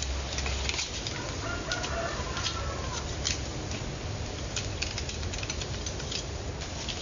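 A wavering, drawn-out animal call from about one to three seconds in, over scattered sharp crackles and clicks.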